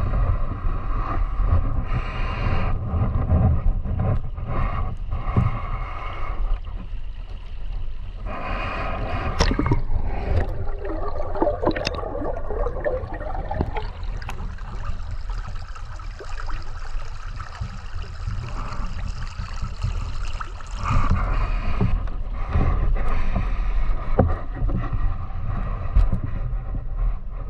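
River water flowing and gurgling, with a heavy low rumble.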